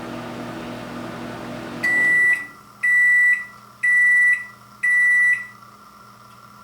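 Microwave oven running with a steady hum that cuts off about two seconds in, followed by four high-pitched beeps about a second apart, signalling the end of the cooking cycle.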